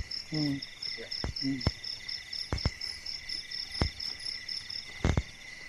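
Crickets and other night insects chirping in a steady, rapidly pulsing chorus. A few sharp clicks sound over it, and a voice murmurs briefly early on.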